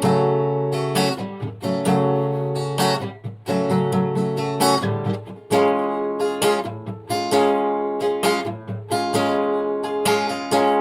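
Instrumental break of a chanson song: strummed acoustic guitar chords in a steady rhythm, the chord changing every second or so.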